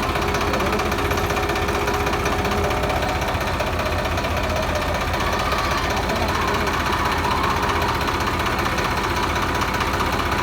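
Tractor engine running steadily while towing a trolley, an even, unchanging rumble with road noise.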